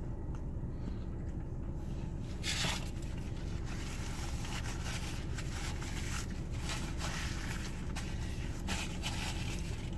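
Someone chewing a crispy chicken sandwich, with faint mouth clicks and a brief rustle about two and a half seconds in, over a steady low rumble.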